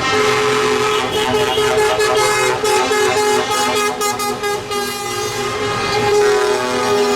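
Vehicle horns sounding in long, held notes over the engines of passing tractors, with more than one horn pitch at once.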